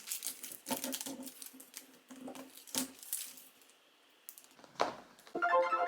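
Intermittent crinkling and clicking of LOL Surprise plastic packaging being handled and unwrapped, with a short quiet gap. Music starts near the end.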